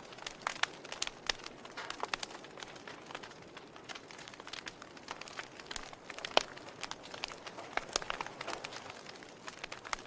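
Fire crackling: irregular sharp pops and snaps over a soft hiss, with one louder pop about six seconds in.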